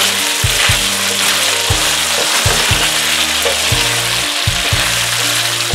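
Chicken, fish and shrimp sizzling in a hot wok as a spatula stirs through them, a steady frying hiss. Background music plays underneath.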